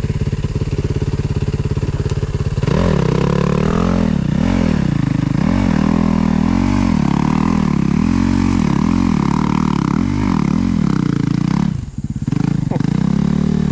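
Dirt bike engine chugging at low revs, then from about three seconds in revving up and dropping back again and again, about a dozen times; it briefly falls away near the end before picking up again.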